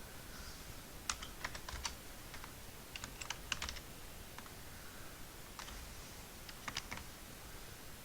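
Computer keyboard keys typed in a few short bursts of quick clicks with brief pauses between them, as a password is entered.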